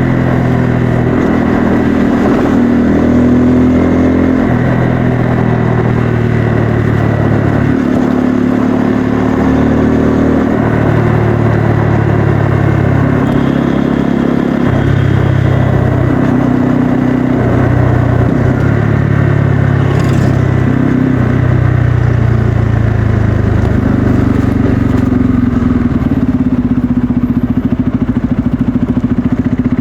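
Bajaj Pulsar N250's single-cylinder engine and exhaust under way. It pulls up in pitch and then drops back several times, as at gear changes or as the throttle is opened and closed.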